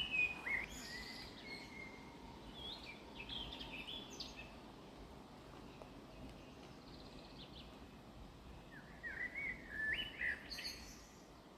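Songbirds singing: two spells of quick chirping phrases, one near the start and one near the end, over a faint steady outdoor hiss.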